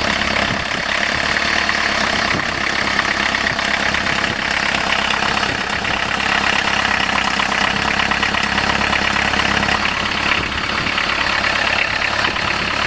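Volkswagen 1.6 turbo diesel (Jetta) engine idling steadily with a dense, even clatter, just after a cold start in freezing weather: a cold-sounding diesel.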